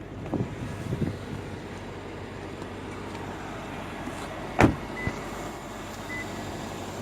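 Car door being opened, then slammed shut with one loud thump about four and a half seconds in. After it come short, faint, high beeps about a second apart.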